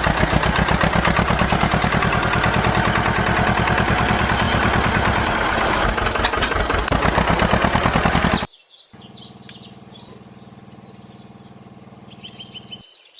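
A loud, fast, steady pulsing like a small motor or engine running, which cuts off suddenly about eight and a half seconds in. It is followed by a quieter stretch of high chirps over a low steady hum.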